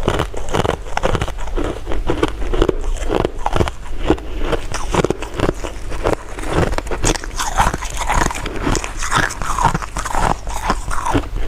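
A person biting and chewing sweets close to the microphone: rapid, irregular mouth clicks and chews.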